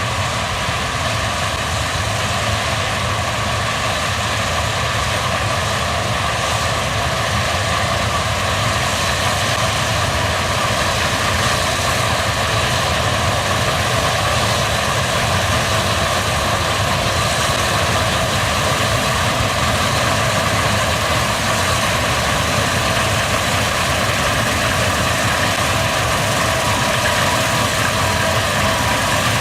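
Case combine harvester running steadily while harvesting barley: a constant engine and threshing-machinery drone with a steady whine on top.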